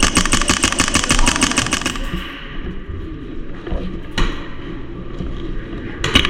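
Airsoft gun firing a rapid burst of about two seconds, then a single shot about four seconds in and two quick shots near the end.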